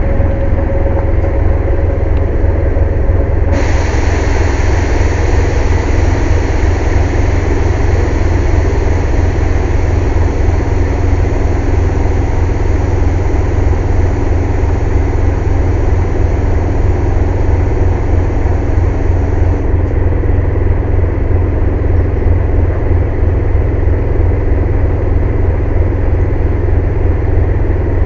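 Air compressor running loud with a steady, low pulsing rumble. A hiss of rushing air starts suddenly about three and a half seconds in and cuts off about twenty seconds in.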